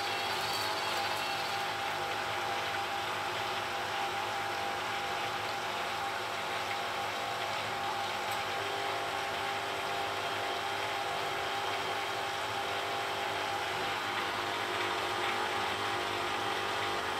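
Beko WTB740E1W washing machine running steadily through a wash programme: an even mechanical hum with a steady whine over it.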